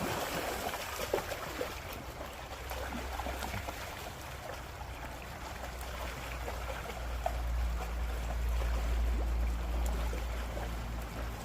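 Salmon stream water running in a steady rushing trickle, with a low rumble building in the second half.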